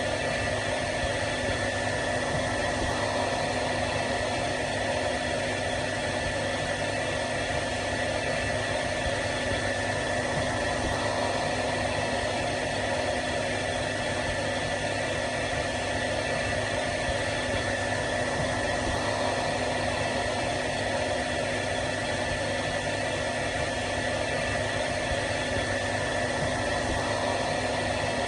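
Hair dryer running steadily, a constant whooshing blow with a fixed motor hum and whine that never changes.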